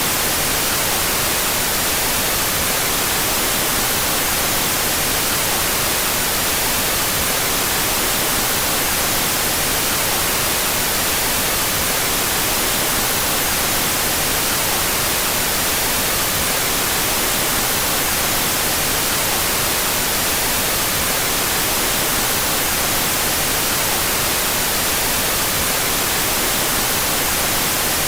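Steady white noise, a constant even hiss that is brightest in the highest frequencies, with no change in level. It is a generated out-of-phase white noise track.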